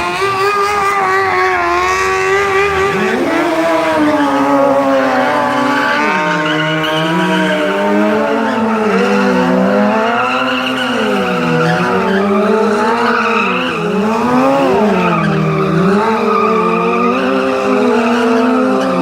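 Stunt motorcycle engines revving hard, the pitch climbing and dropping over and over every second or two as the riders work the throttle through their tricks.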